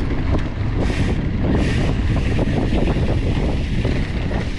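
Wind buffeting the microphone over the rumble and rattle of a mountain bike rolling fast down a dirt trail.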